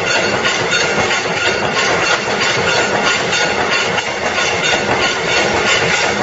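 Mechanical C-frame punch press running continuously with a CNC feed table, a fast, even clatter of repeated punching strokes over a steady hiss.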